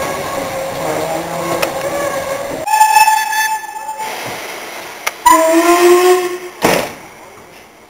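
Steam locomotive whistle, blown twice: a higher blast lasting about a second, then a few seconds later a lower blast that rises slightly, followed by a short sharp knock.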